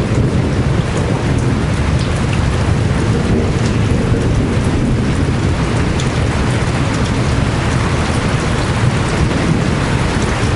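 Heavy rain pouring steadily, with a deep low rumble beneath it and scattered drops ticking.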